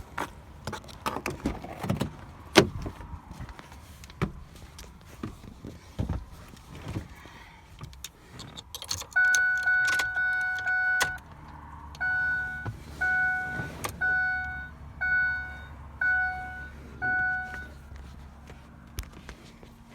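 Keys and small knocks and clicks inside a car, then the car's warning chime: one long two-note tone of about two seconds, followed by about seven short beeps a little under a second apart, over a faint low hum with the ignition switched on before a cold start.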